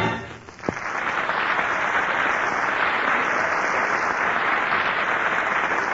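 Studio audience applauding steadily. The applause starts under a second in, as the song's last note dies away. It is heard on a 1945 radio broadcast recording.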